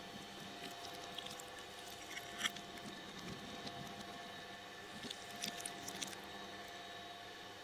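Shredder motor running with a steady hum, with a few sharp clicks and crackles about two and a half seconds in and again a little past the middle as something is shredded.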